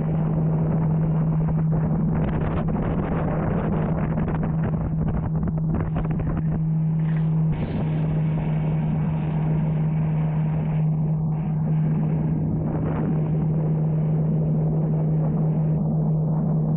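Motorboat engine running at a steady drone, with wind buffeting the microphone.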